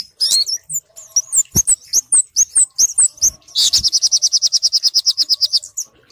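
Bird-lure recording of kemade and sogok ontong calls mixed together: quick, high chirps and slurred whistles, with a fast, even high trill of about a dozen notes a second lasting about two seconds, from midway through.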